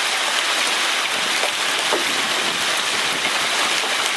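Heavy hailstorm: large hailstones pelting down in a dense, steady hiss of countless small impacts.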